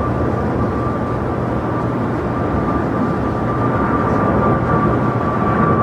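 Jet airliner engines running: a steady rush with a thin high whine over it, growing a little louder near the end.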